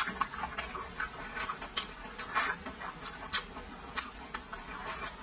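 Close-miked chewing of braised pork rib meat: irregular wet mouth clicks and lip smacks, several a second.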